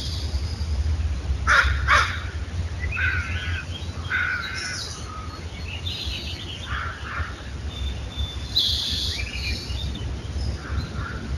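Crows cawing: two loud caws about a second and a half in, then scattered calls and chirps from other birds.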